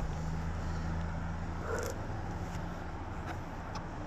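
A vehicle engine idling steadily, heard as a low, even hum.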